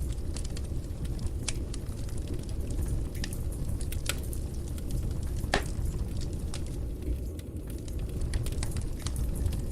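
Wood fire burning in a fireplace: a steady low rush of flames with irregular crackles and pops, the sharpest pop about five and a half seconds in.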